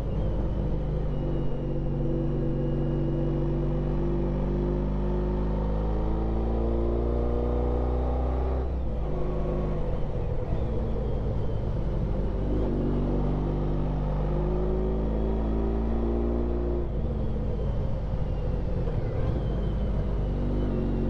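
Honda ST1300 Pan European's V4 engine running under way on the road, its note held steady, then dropping and picking up again about nine seconds in and once more near seventeen seconds, over a constant low rumble.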